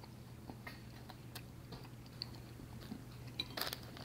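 Faint mouth sounds of a person chewing a bite of mini cherry pie: scattered soft clicks, with a short cluster of sharper clicks near the end, over a low steady room hum.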